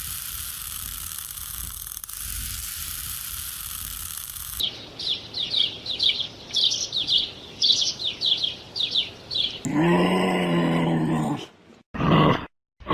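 A steady hiss-like noise, then a small bird chirping in quick repeated falling notes, then a deep, drawn-out animal call near the end.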